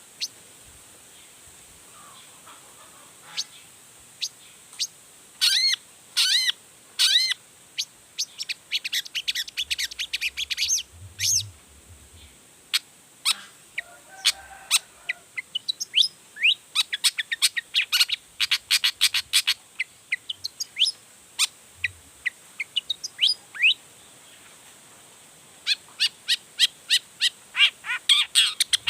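Long-tailed shrike (cendet) singing in full voice, a varied run of sharp, high chirps, whistled sweeps and rapid note series, as the bird shows off its repertoire. It pauses briefly about three-quarters of the way through, then resumes with a fast stream of notes.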